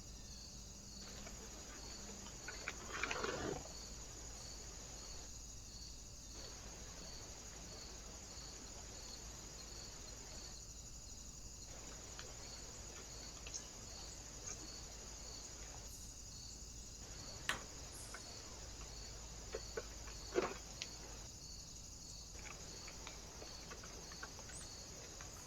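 Steady high-pitched electronic whine with a faint regular pulse, the trail camera's own circuit noise, with a brief rustle about three seconds in and a few faint taps later on.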